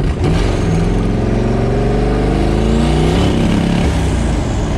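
Twin-turbo small-block Ford V8 accelerating hard under boost. Its revs climb steadily for about three seconds, then fall away. The engine sputtered and lost power here, which the driver puts down to a boost pipe blowing off.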